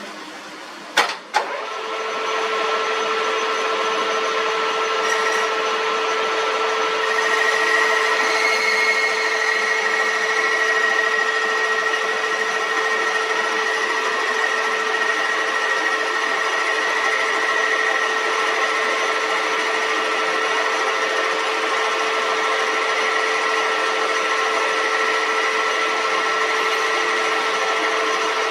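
Metal lathe running steadily, with a constant hum and a high whine. Two sharp clicks come about a second in, just before the machine sound rises to full level.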